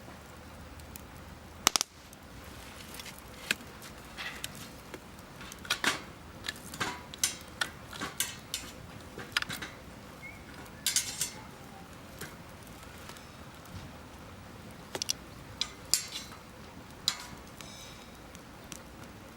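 Wood campfire crackling: irregular sharp pops and snaps over a steady low hiss, the loudest snap just before two seconds in.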